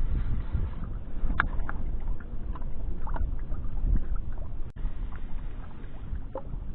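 Wind buffeting the microphone and water lapping against a small boat, a gusty low rumble, with a few light clicks and knocks.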